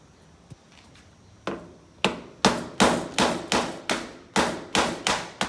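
Hammer blows on a caravan's exterior panel: one strike about a second and a half in, then a steady run of sharp blows, about three a second, each with a short ring.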